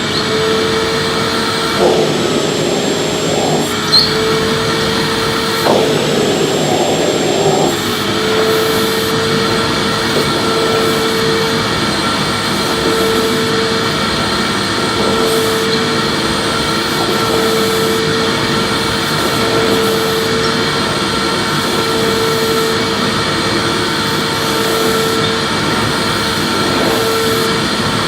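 Electric vacuum cleaner running steadily, a constant motor hum and whoosh of air. In the first several seconds a few brief knocks and scrapes sound over it.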